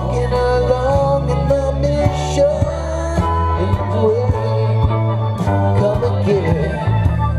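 Live rock band playing an instrumental break: a lead guitar line with bent, sliding notes over bass and drums.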